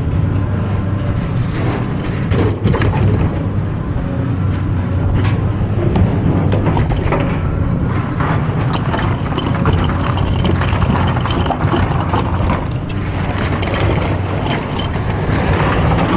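Engine idling steadily, with scattered knocks and clatter as a mini fridge is moved out of the load.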